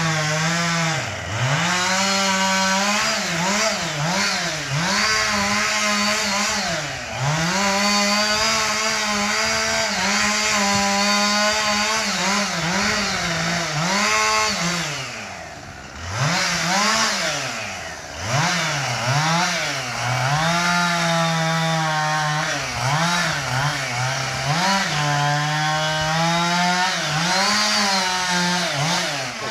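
Two-stroke chainsaw making the felling cut through a large pine trunk. Its pitch sags again and again as the chain bogs in the wood, then climbs back as the throttle is opened, easing off briefly about halfway through.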